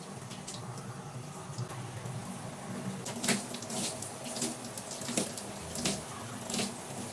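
Water running from a tap, with a run of short, sharp splashes starting about three seconds in.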